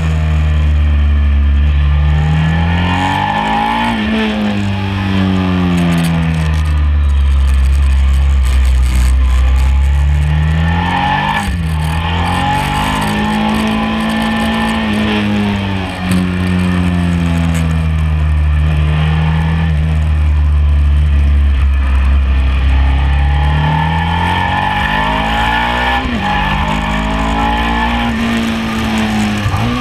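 Sport motorcycle engine at full track pace, heard from on board: the pitch climbs under acceleration, drops sharply at each gear change, and falls away off the throttle into corners, several times over, with steady wind rush over the bike.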